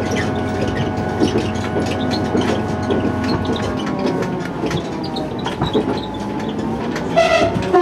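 Train running along the track: a steady rumble with fine clicking from the wheels and rails and a humming drive tone. Near the end the horn gives a short two-note blast, a higher note and then a lower one.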